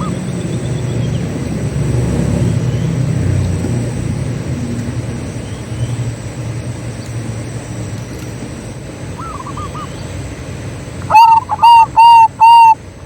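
Zebra dove calling: a faint rolling coo about nine seconds in, then from about eleven seconds a loud series of short, clipped cooing notes, about two a second. A steady low rumble runs underneath the first part.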